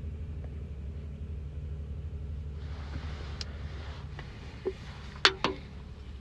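Tools and fasteners clinking a few times, sharp single clicks, over a steady low hum while the skid plate screws are worked loose under the truck.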